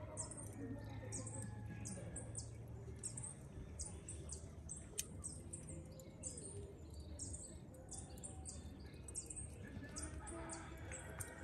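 Birds chirping: many short, high notes repeated over and over, faint.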